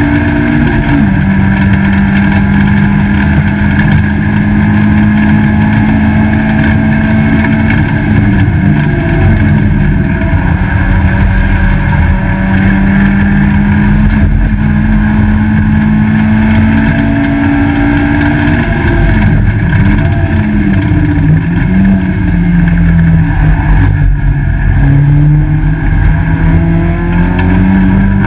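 Peugeot 205 GTi race car's four-cylinder engine heard from inside the stripped cabin at race speed, running hard with road and wind noise. The engine note drops about a second in as it shifts up, holds steady, then dips and climbs again several times later on as the car brakes and accelerates through corners.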